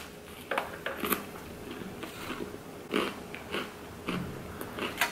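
Close-up mouth sounds of biting and chewing a pizza slice topped with hot Cheetos, with scattered short crisp crunches as the puffs break.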